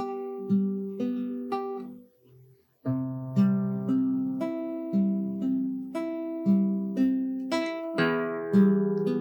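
Background music: acoustic guitar playing a slow instrumental, plucked notes and chords ringing at a steady pace. It breaks off briefly about two seconds in, then starts a new phrase.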